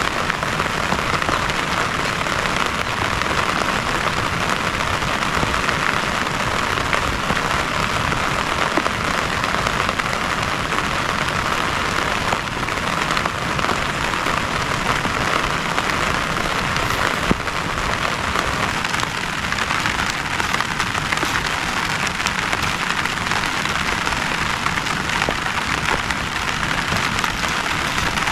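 Heavy rain falling steadily: a dense, even hiss with a few sharper drop hits.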